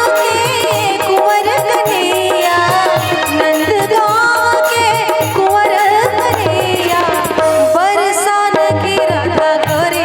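Instrumental break of a Braj Holi rasiya folk song: an ornamented, gliding melody over a tabla-like hand-drum rhythm, with no singing.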